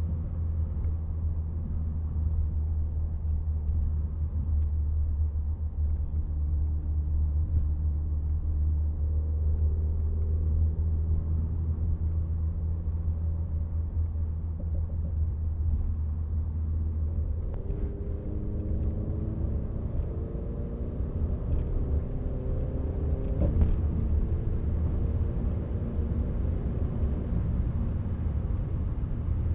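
Renault Mégane RS Trophy's turbocharged four-cylinder engine heard while driving: a steady low drone for most of the first half, then the engine note climbing in steps as the car pulls away through the gears. A few sharp clicks come about two thirds of the way through.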